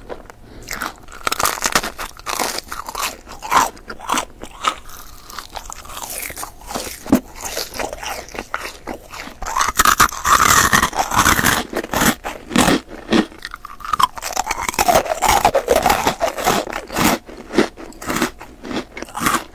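Close-miked mouth sounds of candy being bitten, crunched and chewed: a run of sharp crunches with wet chewing between them. The crunching is densest about halfway through and again around three quarters of the way in.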